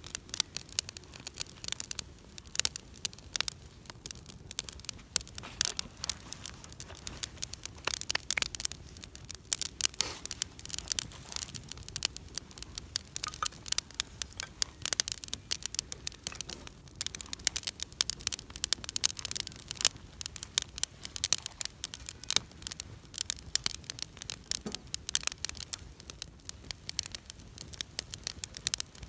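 Wood campfire burning, with dense, irregular crackling and popping throughout.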